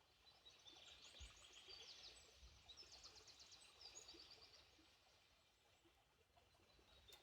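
Faint songbird song in a forest: rapid high chirps and trills for the first four seconds or so, then fading to a faint background hush.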